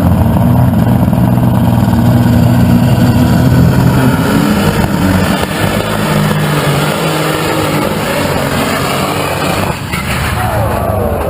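Pulling tractor's engine running hard at high revs under load. About five seconds in, its note drops and it gets a little quieter.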